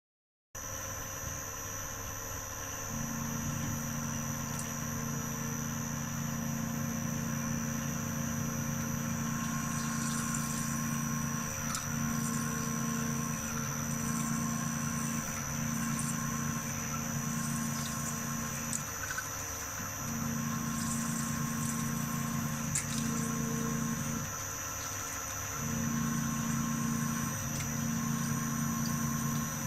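CNC milling machine running: a steady high whine over a low hum that drops out briefly twice, with a few faint clicks.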